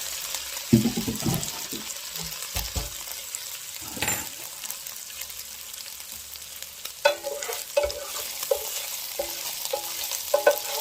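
Chicken pieces sizzling in hot fat in a skillet, with a utensil scraping and knocking against the pan as they are lifted out. Several short clinks come in the second half.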